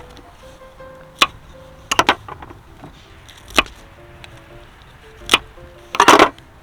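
A kitchen knife knocking on a cutting board in a few irregular strokes, ending in a quick run of chopping strokes, over background music.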